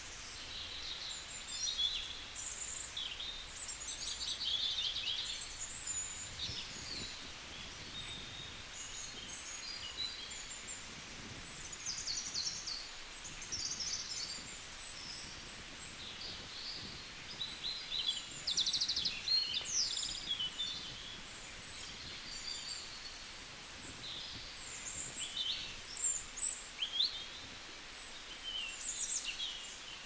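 Small birds chirping and singing, many quick high calls overlapping throughout, over a faint steady hiss of outdoor background noise.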